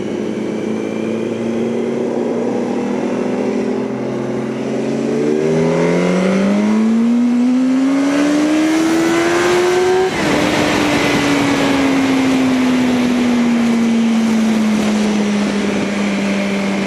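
Yamaha R1 motorcycle engine heard from the rider's seat: a steady cruising note, then revs rising as the throttle is cranked open about five seconds in. Around ten seconds in the pitch drops suddenly at a gear change, then sinks slowly as the bike rolls on, with wind rush over it.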